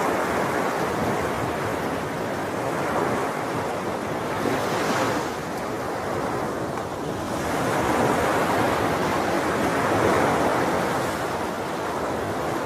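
Sea waves breaking and washing on the shore in a continuous surf, swelling and easing every few seconds, with a brighter hissing wash about five seconds in.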